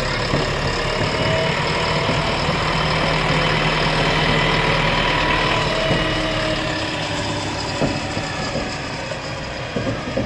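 Diesel engine of a JCB backhoe loader idling steadily, with a few sharp knocks near the end.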